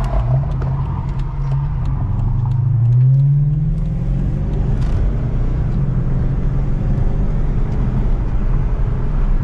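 2006 Dodge Charger R/T's 5.7-litre Hemi V8 accelerating, heard from inside the cabin: the engine note rises over a couple of seconds, peaks about three seconds in, then settles into a steady drone at cruise.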